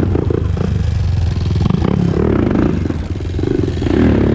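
Honda TRX400EX ATV's single-cylinder four-stroke engine running while riding through a right turn; it eases off about three seconds in, then picks back up.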